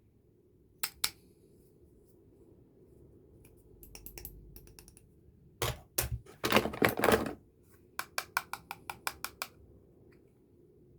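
Small hard makeup cases and packaging being handled: sharp clicks, a louder clatter about six seconds in, then a quick run of about a dozen clicks.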